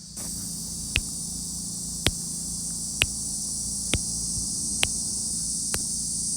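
Periodical cicada chorus buzzing steadily, with a sharp click about once a second: the wing-flick clicks that female cicadas give in answer to the males' mating call.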